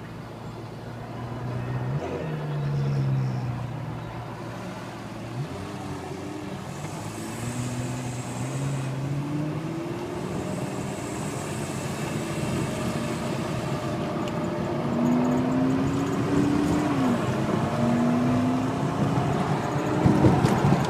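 Car engine accelerating through the gears, its pitch rising over a few seconds and dropping back at each shift, heard from inside a car's cabin over steady road noise.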